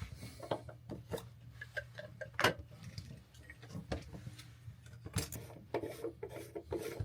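A boat's transducer and speed sensor being handled and pushed back into its fitting: a run of irregular clicks and knocks with rubbing between them, the loudest knock about two and a half seconds in and a quick cluster of clicks near five seconds.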